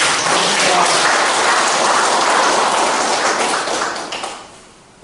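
Audience applauding a guest's introduction: a dense patter of clapping that holds steady, then dies away about four and a half seconds in.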